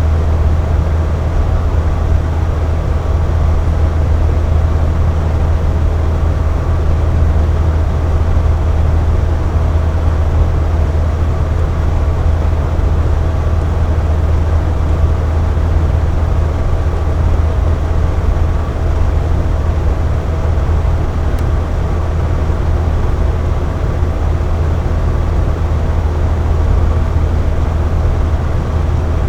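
Air conditioner running steadily: a continuous low hum with an even rush of airflow and a few faint steady tones above it.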